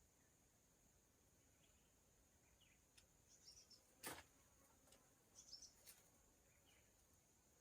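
Near silence: faint outdoor ambience with a steady high hiss, a few faint high chirps in two short clusters, and a single sharp click about four seconds in.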